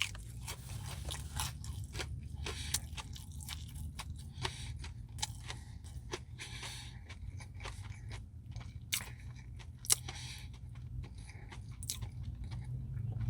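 Close-up chewing and mouth sounds of someone eating an ice cream Blizzard with brownie pieces: many small crunches, smacks and clicks spread irregularly, over a steady low hum.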